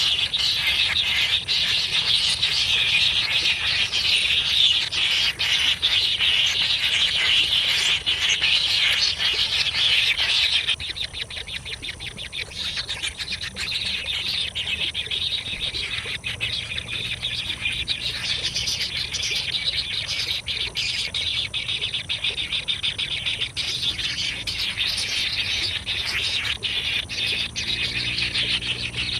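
Nestlings begging for food: a dense, shrill chorus of rapid chirps that drops in loudness about eleven seconds in and then carries on.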